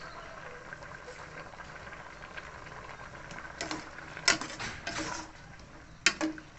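Cooking utensils clattering and knocking against a pot: a cluster of sharp knocks about four seconds in and a few more near the end, over a steady background hiss.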